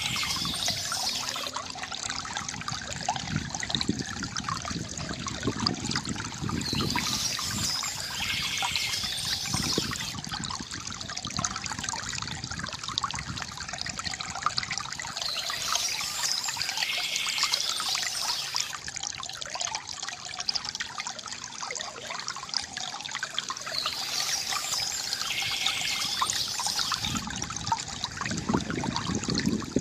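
River water gurgling and trickling steadily, with short bouts of bird chirping four times, about eight or nine seconds apart.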